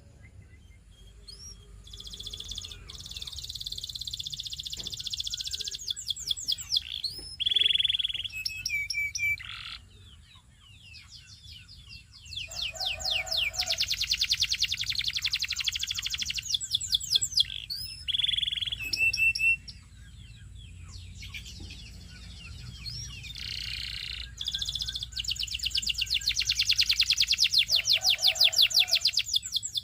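Canary singing in long phrases of fast rolling trills and chirps, with brief pauses between phrases.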